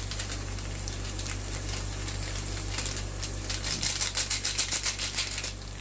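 Onions and garlic sizzling in oil in a frying pan, with a quick run of rapid crackling ticks about three seconds in that lasts a couple of seconds.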